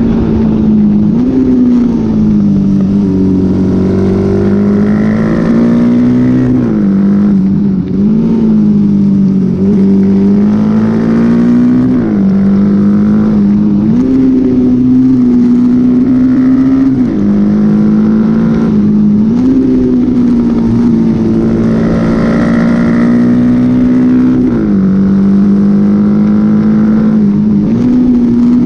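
Honda XL dual-sport motorcycle's engine running hard on a race track, held at high revs. Its pitch steps up and down every few seconds with the throttle and gear changes.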